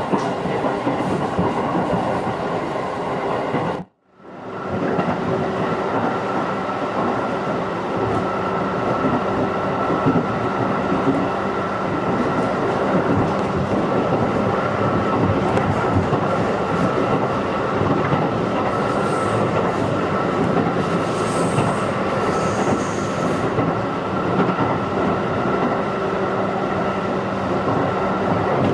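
Cabin running sound of a JR 211 series electric train: steady wheel-and-rail noise with a humming tone, and a faint high wheel squeal about two-thirds of the way through. The sound cuts out abruptly for a moment about four seconds in, then returns.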